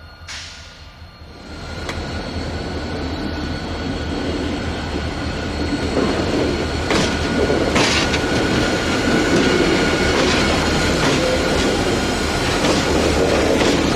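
Freight train rolling past, growing louder about two seconds in and staying loud, with a thin steady high squeal from the wheels. Two sharp clanks come about halfway through.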